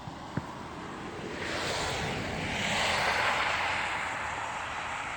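A car passing by slowly on a snowy road: the hiss of its tyres swells to a peak about three seconds in, then fades away. A short click near the start.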